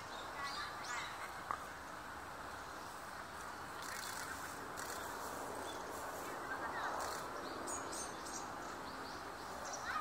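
A few short, high chirps from small birds over a steady background hiss of outdoor ambience.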